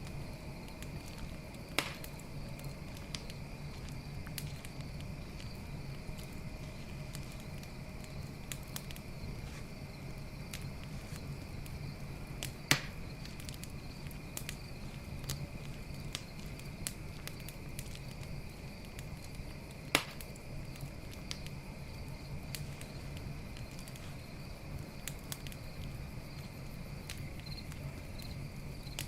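Wood campfire crackling with frequent small ticks and three sharper pops, near 2, 13 and 20 seconds in. A steady trill of crickets runs underneath.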